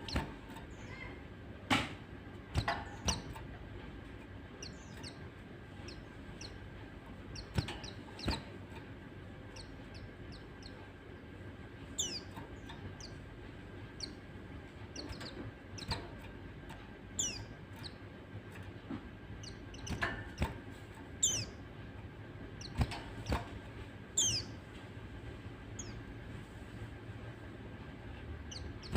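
Pleci (white-eyes) giving short, high, downward-slurred chirps in scattered bursts, with several sharp clicks or knocks among them over a faint steady hum.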